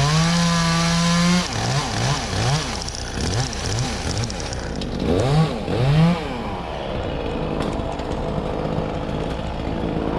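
Chainsaw running, first held at a steady speed, then revved in a quick series of short throttle blips that each rise in pitch, with two bigger revs about five to six seconds in before it settles to a steadier running noise.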